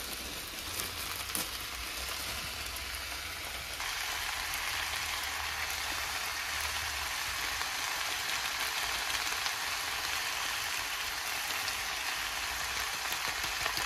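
Cabbage and yakisoba noodles sizzling in an oiled frying pan. The steady hiss grows louder about four seconds in.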